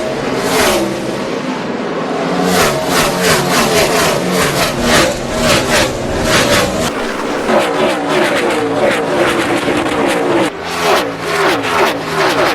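NASCAR Cup cars' V8 engines at full throttle, passing close by one after another, each engine note dropping in pitch as the car goes past.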